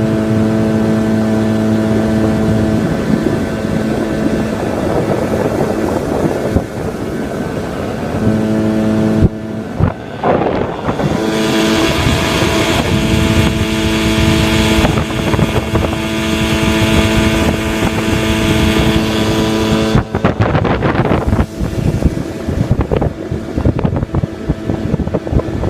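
25 hp Yamaha outboard motor running at a steady speed, its engine tone coming and going under loud wind and water rush. Near the end the engine tone gives way to choppy wind buffeting.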